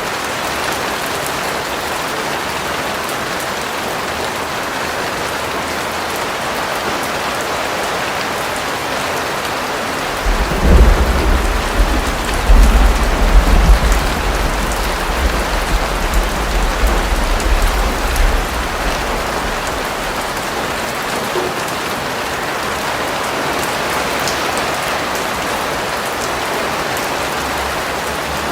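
Steady rain falling, an even hiss throughout. About ten seconds in, a deep rumble of thunder rolls in, peaking a few times and fading over roughly eight seconds.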